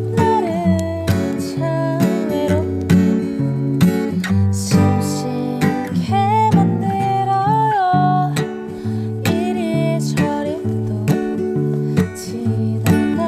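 Acoustic guitar strummed steadily through a song, with a single wavering melody line above the chords.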